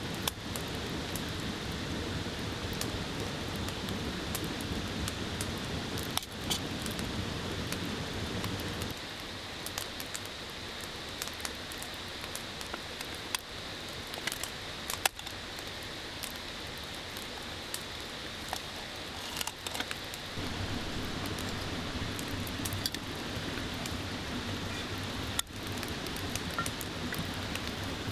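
Mountain stream rushing steadily, with a campfire crackling in small sharp pops over it. The deeper part of the water's rush drops away about a third of the way in and comes back about two thirds of the way through.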